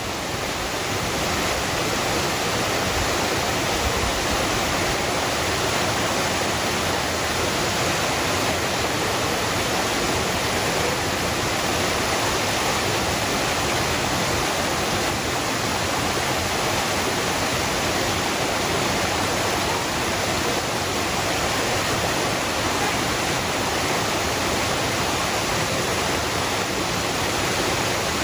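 Waterfall: a steady, unbroken rush of falling water, an even hiss-like noise that does not change, settling to full level within the first second or two.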